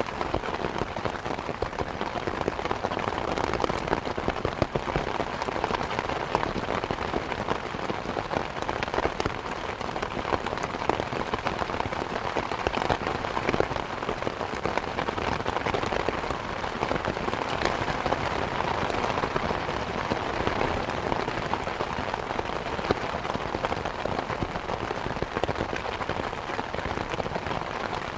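Steady rain falling on the ground and foliage, a dense even hiss with many individual drops ticking through it.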